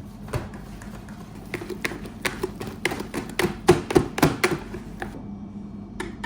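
A quick, irregular run of taps and knocks, about three to four a second and loudest in the middle, as hard objects are handled on a work surface, over a steady low hum.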